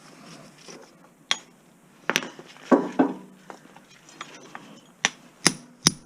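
Axe blows striking a washing-machine motor, a string of sharp clinking hits with three quick ones near the end, to crack the motor's hard plastic so the windings come out.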